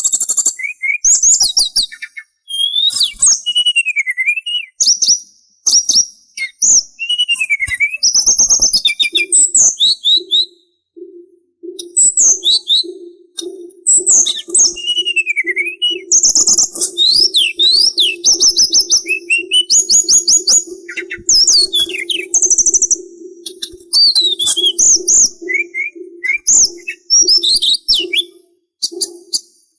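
Sulingan songbird singing a fast, varied string of high whistled notes, chirps, trills and swooping glides, broken by short pauses. A low, steady pulsing hum runs underneath from about a third of the way in until near the end.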